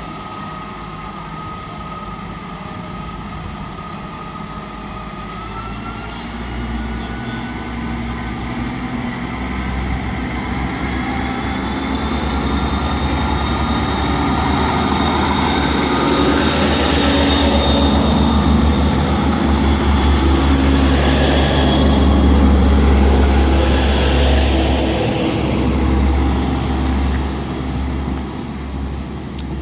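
Diesel train running past, its engine rumble building to a peak about two-thirds of the way through and then easing, with a whine that climbs steadily in pitch early on.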